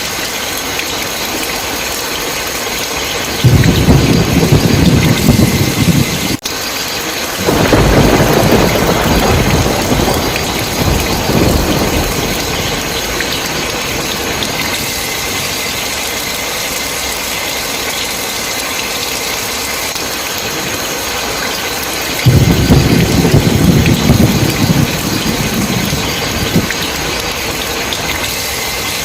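Steady rain with rolling thunder. Low rumbles of thunder come three times: about three seconds in, again from about seven seconds in, fading over several seconds, and once more near the end. There is a brief break in the sound just before the second roll.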